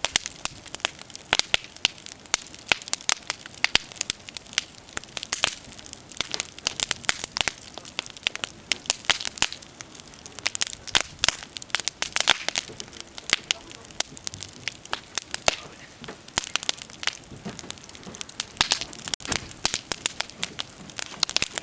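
Wood bonfire crackling: dense, irregular sharp pops and snaps over a steady hiss of burning.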